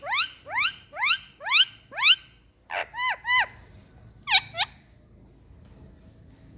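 Indian ringneck parrot calling: a run of five sharp rising calls about two a second, then a few shorter arched calls, then quiet for the last couple of seconds.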